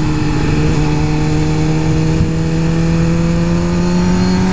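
Suzuki GSX-R 1000's inline-four engine pulling under acceleration, its pitch rising slowly and steadily as the revs build, over a steady rush of wind noise.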